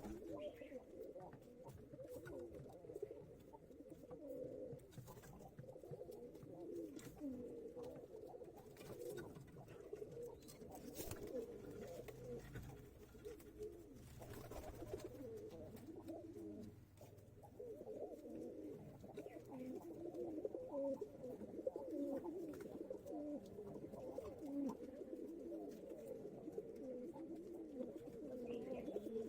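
Many pigeons cooing at once, their low, wavering coos overlapping into a continuous murmur.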